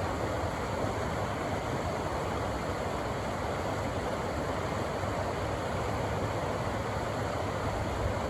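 Rushing river water: a steady, even rush with a low rumble underneath.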